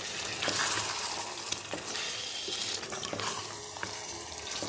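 Chicken pieces and green chilli paste sizzling in a karahi while a spatula stirs them, with steady frying hiss and a few light scrapes and knocks of the spatula against the pan.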